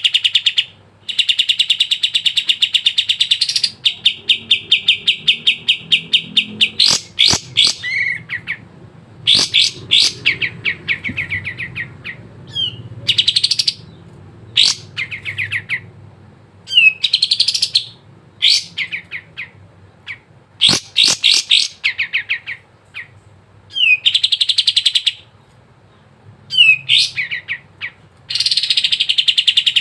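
Kapas tembak songbird singing loudly in a long series of fast chattering trills, each run lasting one to a few seconds with short pauses between.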